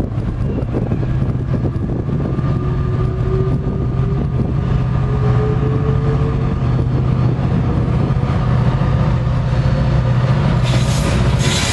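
Engine running with a steady low drone and a faint whine slowly rising in pitch; a loud hiss comes in near the end.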